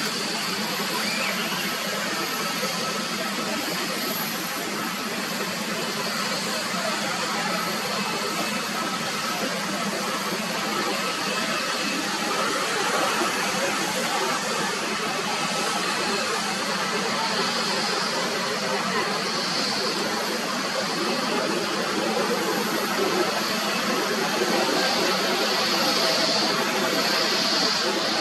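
Airliner jet engines running: a steady rushing hiss with a faint whine, growing slightly louder over the last several seconds.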